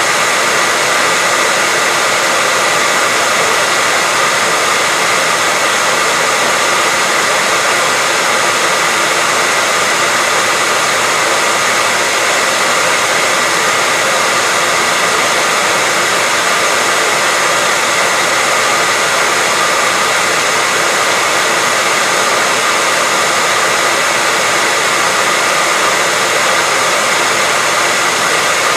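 Hair dryer running steadily: an even, unbroken rush of air with a faint steady whine from its motor.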